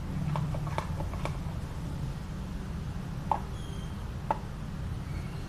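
Utensil clicking and knocking in a bowl while slime is stirred, borax being worked in a little at a time: a handful of sharp clicks, two louder ones in the second half, over a steady low hum, with a few faint high squeaks near the end.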